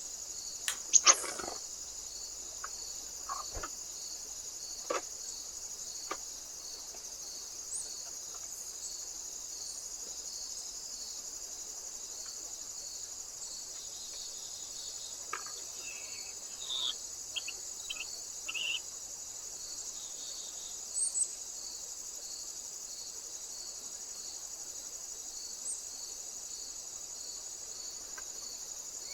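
Insects chirring steadily and high-pitched, with an even pulsing beat, typical of crickets on a summer night. About a second in comes a loud double knock, followed by scattered short taps and brief chirps.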